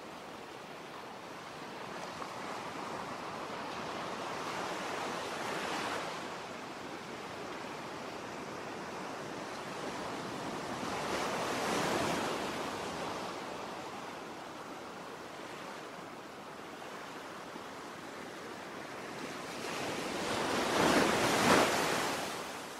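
Ocean waves washing in, three slow swells of surf about every eight seconds, the last the loudest.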